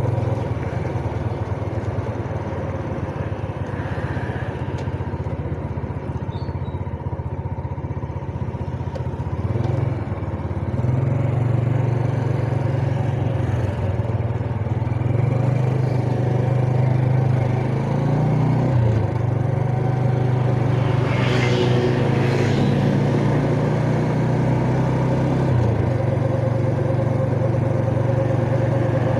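Yamaha Jupiter Z underbone motorcycle's single-cylinder four-stroke engine running under way, heard from the rider's position. Its note drops and rises several times with throttle and gear changes, and gets louder from about ten seconds in.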